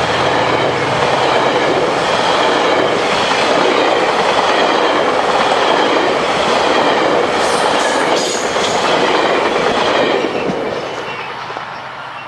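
GO Transit commuter train rolling past at speed, a steady rush of wheels on rail with a few sharp clicks, fading from about ten seconds in as the end of the train goes by.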